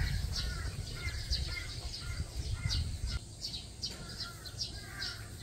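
Small birds chirping, short repeated chirps about twice a second, over a low steady rumble.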